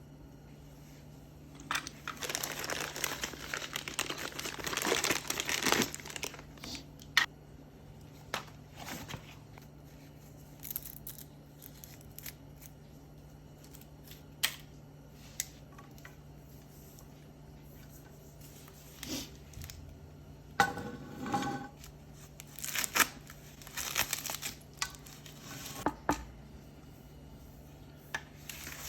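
Packaging crinkling and tearing as it is handled, in two long spells of rustling about two seconds in and again past the twenty-second mark, with scattered clicks and knocks between.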